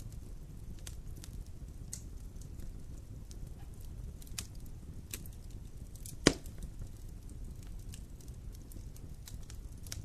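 Wood campfire burning, crackling with scattered small pops over a low steady rumble, and one loud sharp pop about six seconds in.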